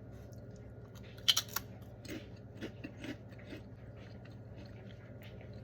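A crisp bite into a Buldak habanero lime chip about a second in, followed by crunchy chewing, a few softer crunches that fade out.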